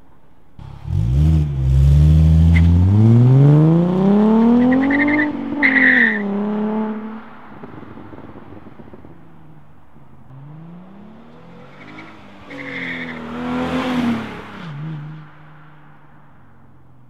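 Ford Mustang 3.7L V6 through an MBRP stainless axle-back exhaust, revving up hard. The pitch climbs steadily for about five seconds and then falls back. After a few seconds of low running there is a second, shorter rise and fall.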